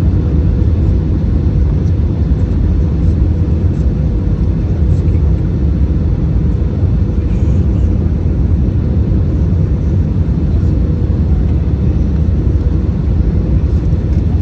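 Cabin noise aboard an Airbus A319: a steady low rumble of airflow and engines, with a faint steady hum above it.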